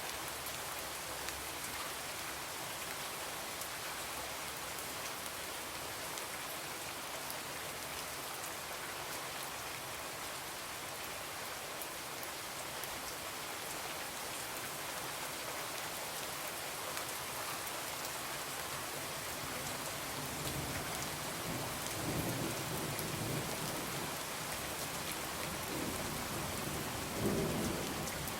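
Steady rain falling on a window, with fine ticks of drops throughout. In the last third a low rumble of thunder builds, swelling twice and loudest near the end.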